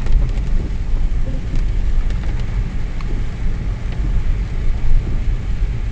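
Mercedes with a 3-litre V6 diesel on the move: a steady low rumble of engine and road noise, with a few faint ticks.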